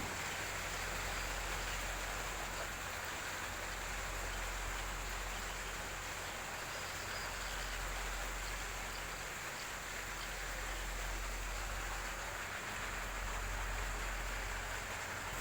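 Rain falling steadily: an even hiss with no let-up.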